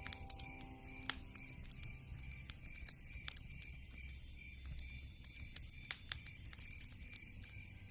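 Campfire crackling, with irregular sharp pops over a low rumble, and a steady chirping call repeating about four times a second.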